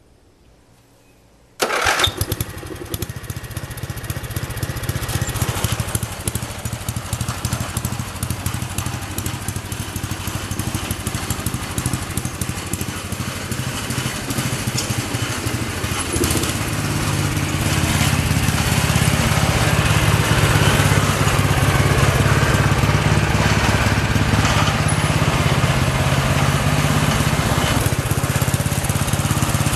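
Small lawn mower engine starting about a second and a half in, then running with a steady low pulsing that grows louder a little past halfway through.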